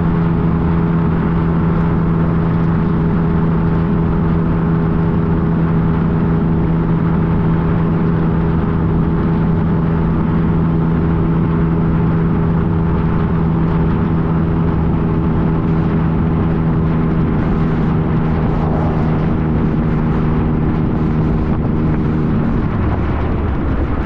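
2015 Yamaha FJ-09's three-cylinder engine running at a steady cruising speed with road and wind noise, then dropping in pitch near the end as the bike slows.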